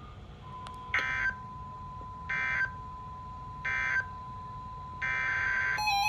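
NOAA Weather Radio digital SAME data bursts: three short buzzy bursts about 1.3 seconds apart, typical of the end-of-message code, then a longer burst. A faint steady tone runs under them. A warbling electronic tone pattern starts near the end.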